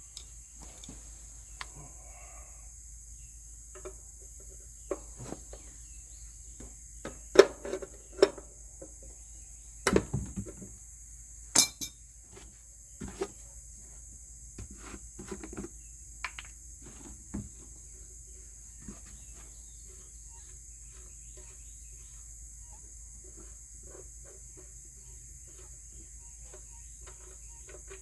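Irregular clinks and knocks of metal tools, most of them and the loudest through the middle stretch, over a steady high-pitched insect drone.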